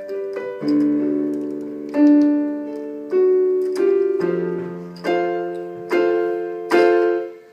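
Electronic keyboard playing piano chords, a new chord struck roughly every second and left to ring and fade, as an introduction to a song.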